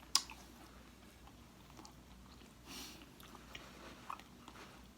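A person chewing and biting into cooked chicken feet, with a sharp click near the start and scattered small wet clicks.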